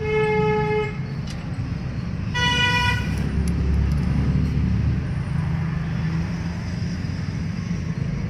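A vehicle horn toots twice, each lasting just under a second, the second about two seconds after the first and a little higher in pitch. Under the horn runs the steady low rumble of an engine running.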